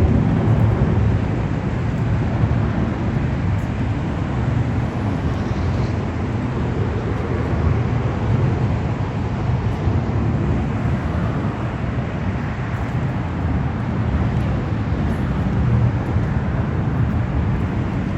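Steady low-pitched noise with no distinct events, of the kind made by road traffic or wind on the microphone.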